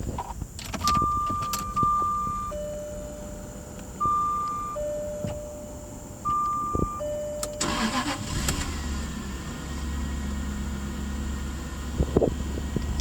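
A two-tone warning chime alternates high and low notes for about six seconds. Then the starter cranks briefly and the 1999 Jaguar XJ8's V8 fires and settles into a steady cold-start idle.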